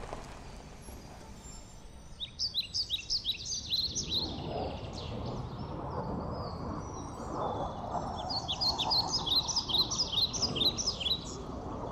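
A songbird singing two phrases of rapid repeated high chirps, the first about two seconds in and the second near the end, over a steady low background rumble.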